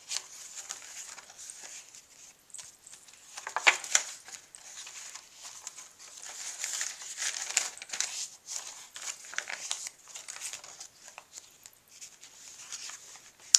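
Paper pages of a handmade junk journal being turned and handled: irregular crisp rustling and crinkling of eco-dyed paper and tracing paper, with a louder crackle about four seconds in.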